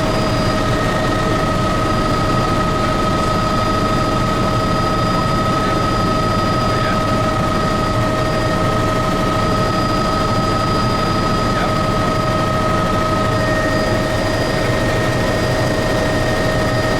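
Tour helicopter's turbine engine and rotor running steadily in cruise, heard from inside the cabin: a loud, even noise with a constant high whine.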